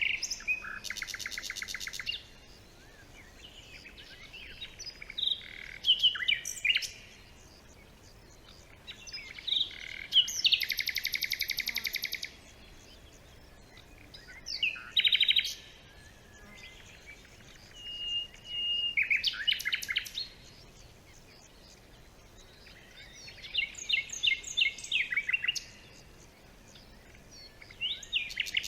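Songbirds singing in a forest: a series of separate phrases a few seconds apart, several of them fast trills, with short calls and chirps in between.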